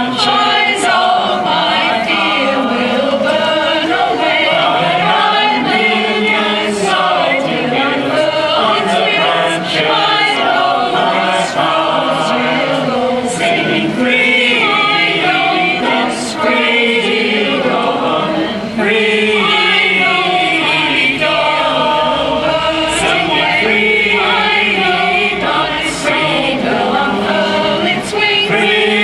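Union choir singing.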